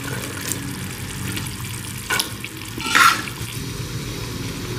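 Boiled black chickpeas being ladled into hot ghee and spice masala, frying with a steady sizzle, with a steel ladle clattering against the pot twice, about two and three seconds in, the second louder.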